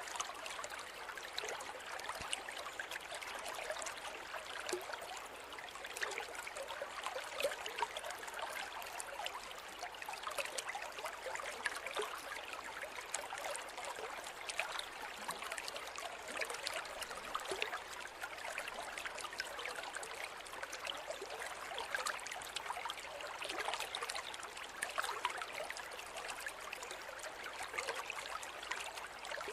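A small river or stream running steadily over stones, a continuous splashing and trickling without pause.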